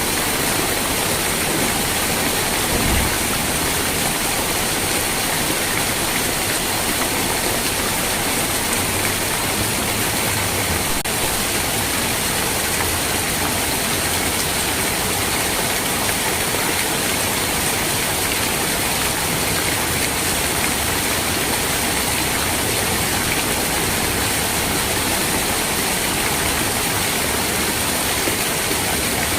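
Steady rain, an even hiss with no breaks, with a brief low thump about three seconds in.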